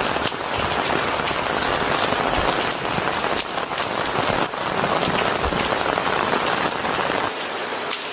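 Steady rain falling on a hard surface, a dense patter of many close drops.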